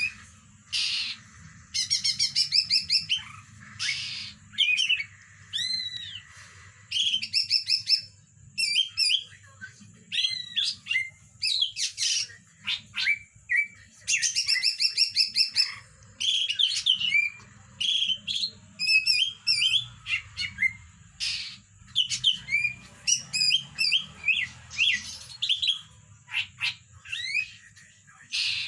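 Pet songbird singing in bouts of rapid, repeated chirps and trills, with short pauses between phrases.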